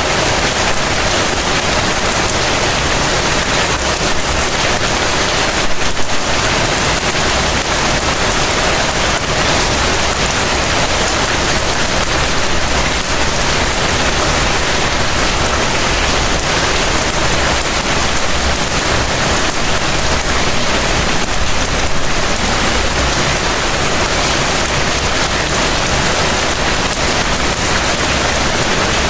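Heavy rain falling steadily, a dense even hiss of rain on surfaces, with a slight swell about six seconds in.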